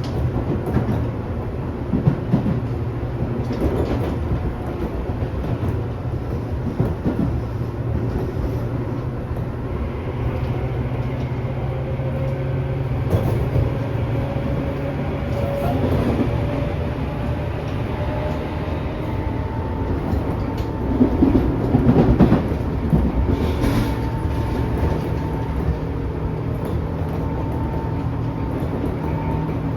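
Tobu 10000 series electric train heard from inside a motor car while running: steady wheel and traction motor rumble, a few motor tones slowly shifting in pitch, and occasional knocks from the wheels passing over rail joints.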